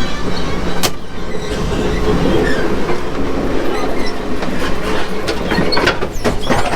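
Passenger train running on the rails: a steady rumble with wheel clatter, and sharp clicks and knocks coming thicker near the end.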